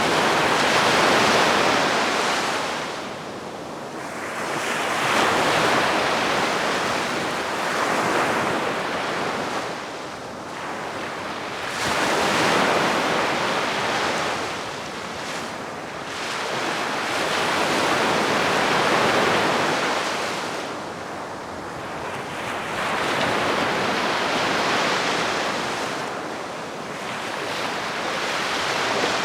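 Calm sea waves washing onto the shore, each wash swelling and fading every four to six seconds.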